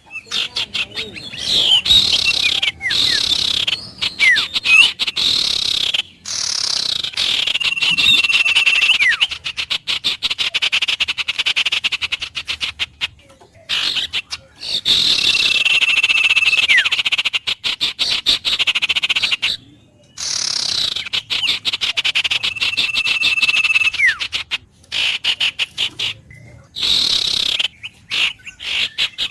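Wild birds calling and chirping with rapid pulsing trills, high-pitched and dense. A held whistle-like note ending in a falling sweep recurs several times, and the sound drops out briefly to silence now and then.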